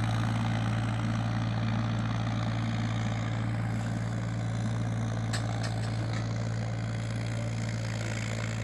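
Powertrac Euro 47 tractor's diesel engine idling steadily, with a few light clicks about five and a half seconds in.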